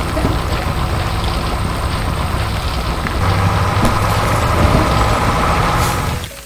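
Heavy construction vehicle engine running steadily, with a higher whine joining in about three seconds in.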